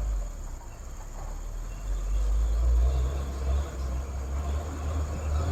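Heavy diesel truck engine running under load: a deep, steady low rumble that grows louder about two seconds in.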